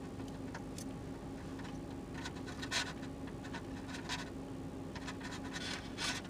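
Close-up chewing of a mouthful of shrimp: soft, irregular wet scratchy mouth noises at scattered moments, over a steady low hum.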